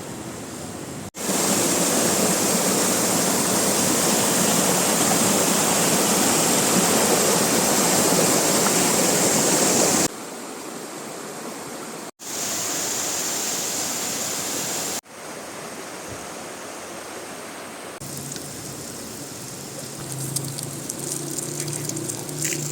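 Rushing water from a waterfall and river, steady and even, cut into several stretches of different loudness. It is loudest for about the first ten seconds.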